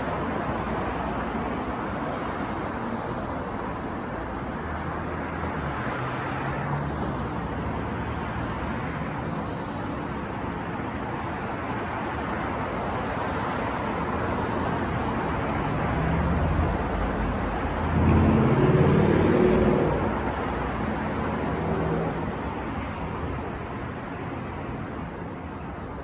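City street traffic: a steady wash of car and road noise, with a heavy vehicle's engine passing loudest about two-thirds of the way through.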